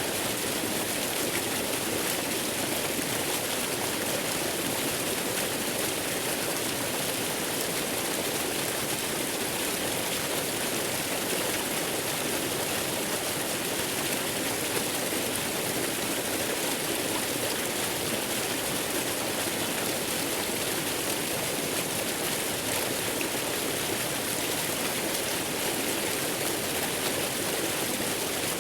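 Steady rushing water of a waterfall blended with white noise, an even hiss that does not change.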